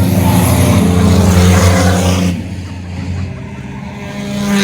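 Race car engines running hard as the cars pass close by, loud for about two seconds. The sound then drops off suddenly as they move away, and another engine grows louder near the end.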